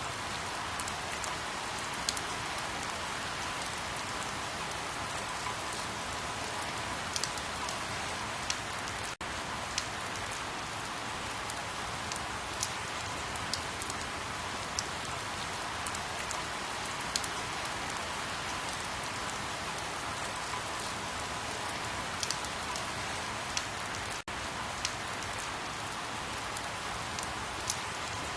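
Steady rain: an even hiss with scattered sharp drop ticks. It cuts out for an instant twice, about nine seconds in and near twenty-four seconds.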